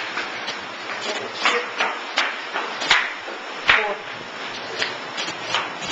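Footsteps on hard stairs: a quick, uneven run of sharp footfalls, about two or three a second.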